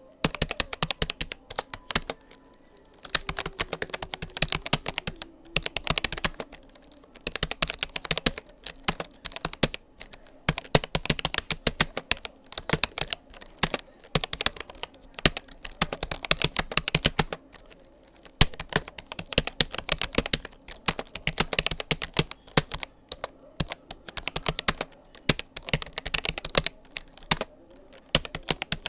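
Typing on a Rapoo computer keyboard: rapid runs of key clicks in bursts of a second or two, broken by short pauses between words and phrases.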